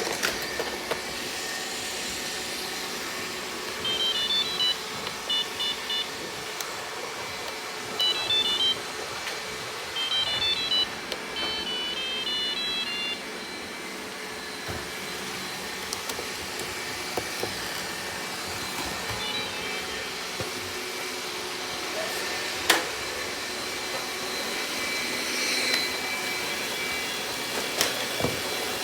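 Robot vacuum cleaner running steadily, with several quick clusters of short, high electronic beeps between about 4 and 13 seconds in and a single sharp knock a little after 22 seconds.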